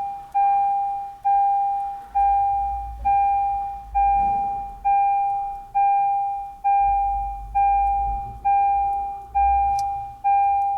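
An electronic chime repeating one note about every 0.9 seconds, each beep fading away before the next, steadily throughout.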